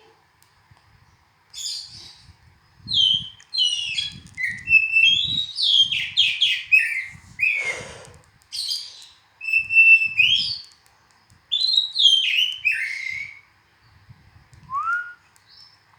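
Oriental magpie-robin (kacer) singing: a long run of varied, quick whistled phrases with many falling slides, starting about a second and a half in, then a pause and one short rising note near the end.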